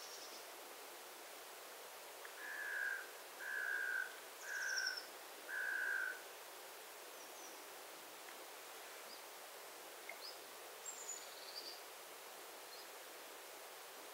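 A bird calling four even notes on one steady pitch, about a second apart, followed by a few faint high chirps from other birds, over a steady faint hiss of background noise.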